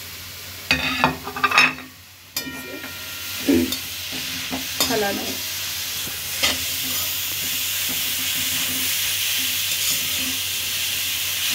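Grated bottle gourd frying in hot ghee in a steel kadhai, sizzling as it is stirred around the pan with a few knocks of the utensil. The sizzle settles into a steady hiss from about six seconds in.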